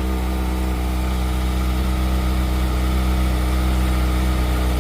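Kawasaki motorcycle engine idling steadily.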